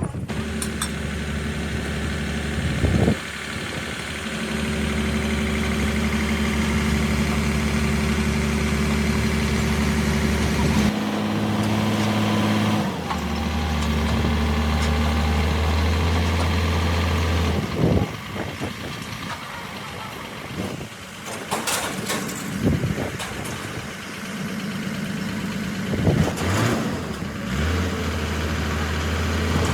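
A heavy vehicle's engine running steadily, its speed stepping up and down several times, with occasional knocks in the second half.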